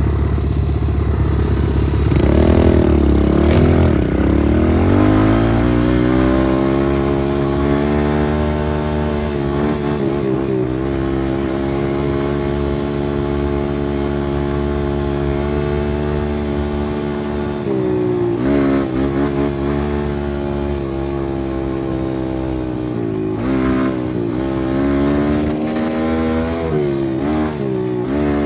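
Pit bike engine under way: the revs climb over the first several seconds, hold steady, then drop and pick up again three times in the second half.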